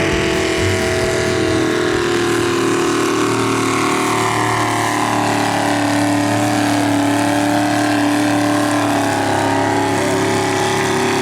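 Engines of a mini rod tractor puller running hard and loud, the pitch dipping slightly midway and then holding steady.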